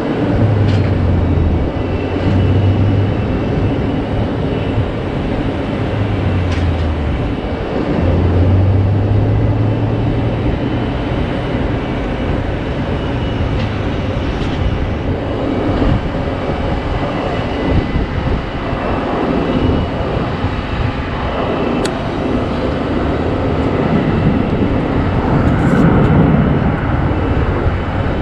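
Jet airliner engines running loud and steady, with a low hum in the first few seconds that fades out.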